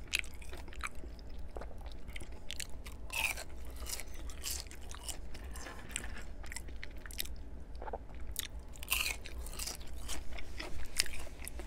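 A man chewing crispy french fries close to the microphone, with irregular crunches.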